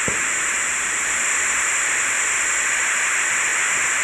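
Steady static hiss from the Ghost Tube spirit-box app, with a constant high-pitched chorus of night insects behind it.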